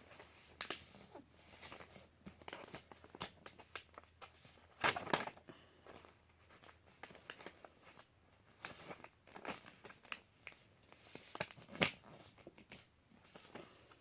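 A sheet of paper being folded and creased by hand into a paper airplane, with irregular rustles and crinkles and two louder crackles, about five seconds in and near the end.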